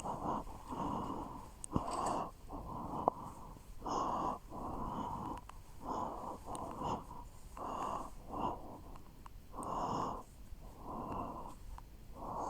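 Irregular swishes of fabric rustling and handling as a doll is dressed in a suit, about one swish a second, with a couple of light clicks near the start.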